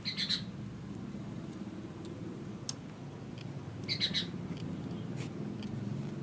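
A songbird giving short, high chirping calls twice, once right at the start and again about four seconds later, over a steady low background hum.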